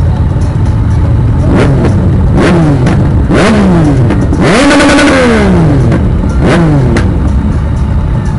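Motorcycle engine idling with five quick revs that rise and fall in pitch, the fourth the longest and loudest, held briefly before dropping back.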